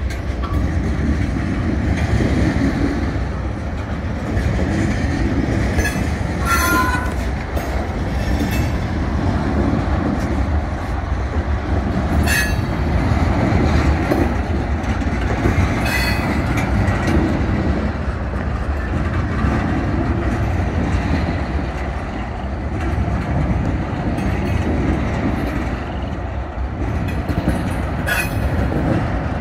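Freight train tank cars rolling past on the rails: a steady rumble of wheels on track, with a brief wheel squeal about six seconds in and a few short clanks.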